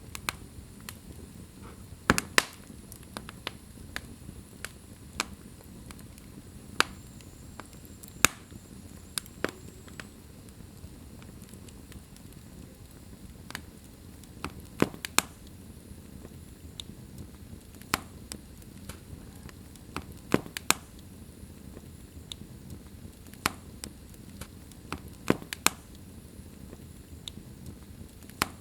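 Wood fire burning in a fireplace: a low steady hiss and rumble of flames with sharp, irregular crackles and pops, a few of them loud.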